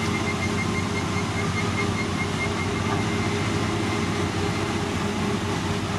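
Heavy construction machine's diesel engine running steadily, a constant low hum with no change in speed.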